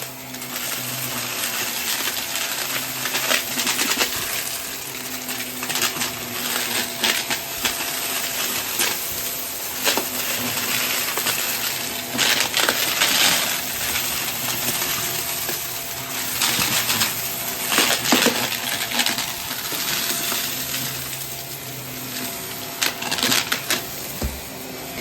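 Vacuum cleaner running with a steady motor hum while it sucks up a heavy debris mix, the pieces rattling and clattering through the machine in quick, irregular clicks.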